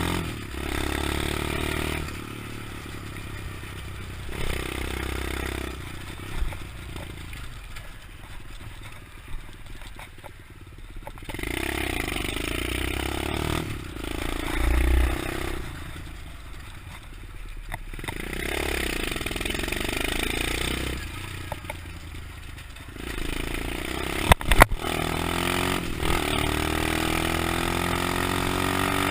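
125cc pit bike engine revving up and down over and over, with quieter stretches between the revs. A couple of sharp knocks stand out as the loudest sounds about three-quarters of the way through.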